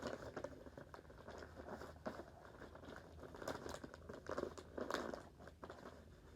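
Sheet of paper being handled and folded: irregular crinkling and rustling, with scattered short crackles as it is flipped over and creased.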